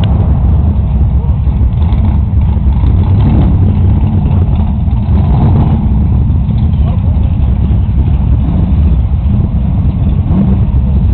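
Drag-racing car engines idling with a steady low rumble.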